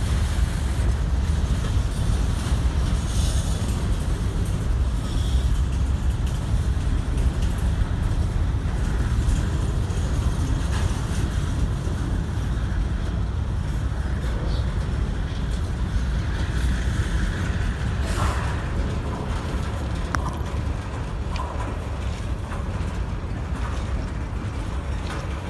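Freight train moving during yard switching: a steady low rumble of the locomotive and rolling cars, with a clank about eighteen seconds in.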